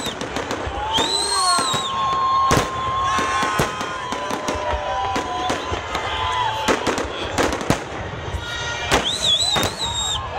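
Fireworks salute: many sharp bangs of shells bursting in quick succession, with long whistling tones sounding over them.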